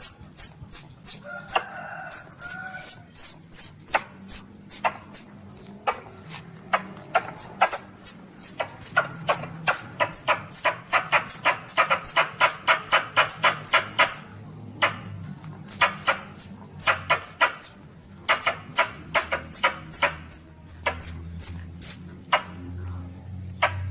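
Young Asian palm civet (luwak) calling: a rapid, even series of short, high, falling squeaks, about three a second. A lower, fuller cry comes about two seconds in.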